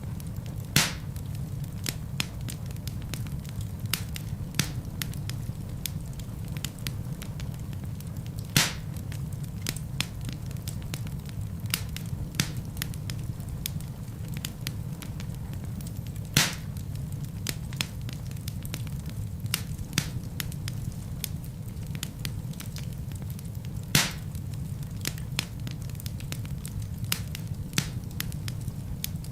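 Wood fire burning in a fireplace: a steady low rumble of flame with constant small crackles, and four louder pops of the burning wood spread through.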